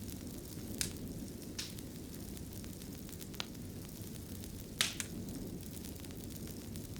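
Fireplace fire burning with a steady low rumble and sharp crackling pops, about five in all, two of them close together about five seconds in.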